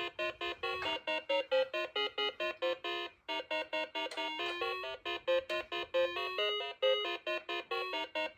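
An electronic tune of quick, short, keyboard-like notes, about four a second, with brief breaks about three and five seconds in.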